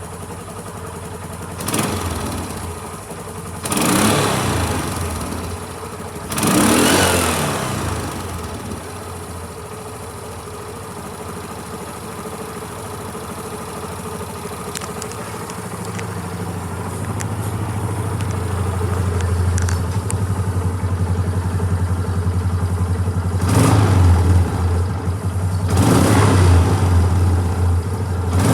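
LML Star Deluxe 4S 200 scooter's four-stroke engine idling, with three short throttle blips about two, four and six and a half seconds in. The revs then climb slowly and it is revved twice more near the end.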